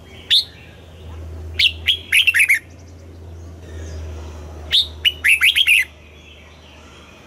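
Red-whiskered bulbul singing: one short note, then two quick phrases of rapid warbled notes about three seconds apart, over a steady low hum.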